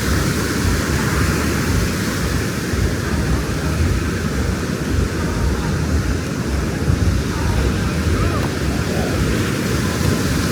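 Steady outdoor noise with a low, gusting wind rumble on the microphone.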